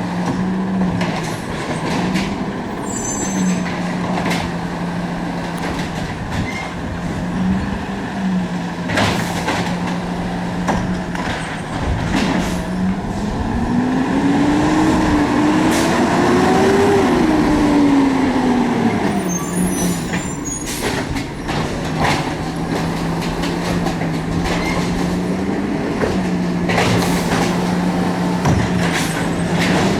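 Garbage truck engine running steadily, then revving up and back down for several seconds near the middle and rising again near the end. Repeated clanks and bangs sound throughout.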